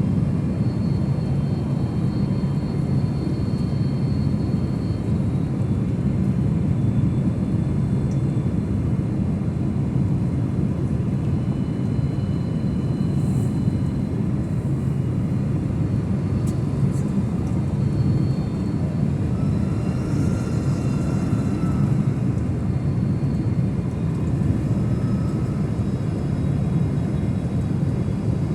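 Airliner noise: a steady low rumble that holds level throughout, without rising or falling.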